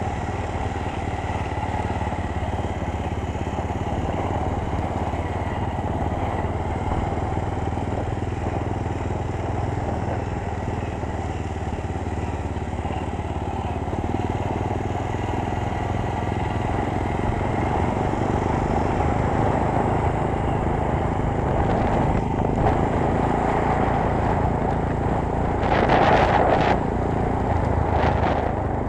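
250 cc sport motorcycle engine running steadily while riding, under a constant rush of noise, slowly growing louder over the second half. There are two short, louder bursts of noise near the end.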